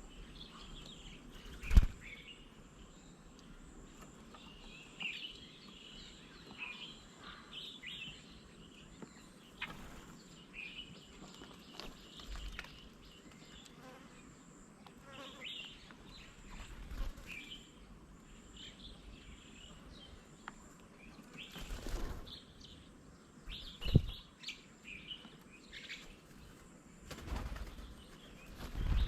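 Small birds chirping and calling in short, repeated notes, with a few sharp knocks scattered through, the loudest about two seconds in.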